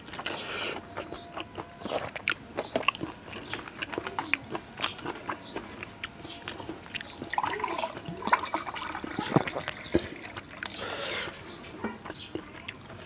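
A person chewing and smacking a mouthful of rice with dal and fried vegetables: many short wet clicks and smacks, with a few sharper crunches.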